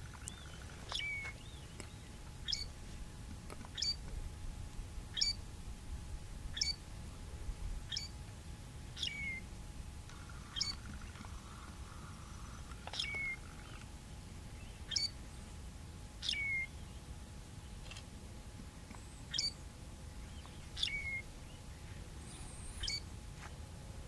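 A bird repeating one short call, a quick downward sweep that ends in a brief hooked note, every one to two seconds, about fourteen times, over a steady low rumble.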